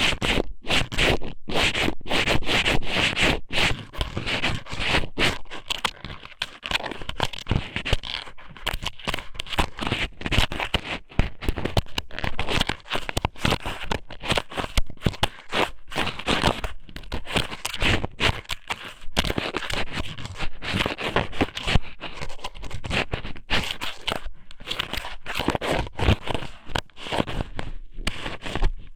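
Strips of squid somen (thin-cut raw squid) stuffed into and rubbed around an ear-shaped ASMR microphone: dense, uneven scraping and crackling right at the microphone, broken by many brief pauses.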